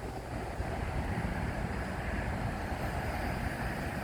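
Steady low outdoor rumble with a faint hiss above it, even throughout, with no booms or other sudden sounds.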